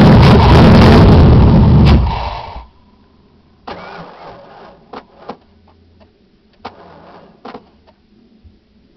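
A 1991 Mercury Grand Marquis's 5.0 L V8 running loudly, then dying about two seconds in as it runs out of gas. A few faint knocks and clicks follow.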